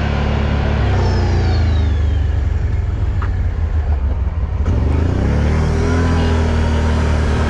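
Four-wheel-drive ATV engine running steadily. It eases off for a moment about three seconds in, then revs back up with a rising pitch about five seconds in.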